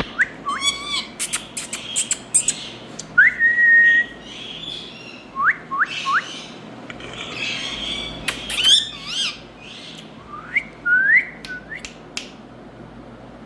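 Indian ringneck parakeet calling: a run of short rising whistles mixed with sharp clicks and harsher squawks, ending about a second before the close.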